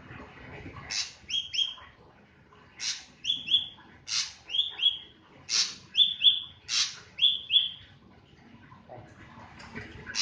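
Drongo (sri gunting) calling: a phrase of a sharp downward sweep followed by two short down-slurred whistles, repeated five times in quick succession, starting about a second in.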